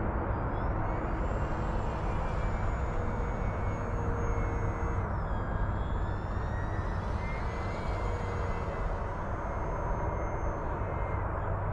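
Electric brushless motor and propeller of a 1.5 m FMS Cessna 182 RC plane flying aerobatics overhead: a thin, high whine that glides up and down in pitch several times as the plane manoeuvres and throttle changes. A steady low rushing noise lies underneath.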